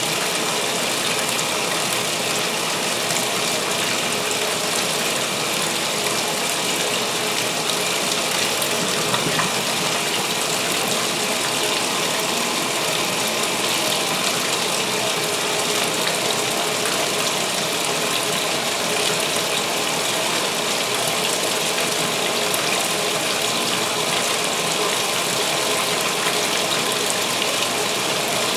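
2016 Speed Queen top-load washing machine filling for its pre-wash: a steady gush of water pouring into the tub, with a faint mechanical rattle.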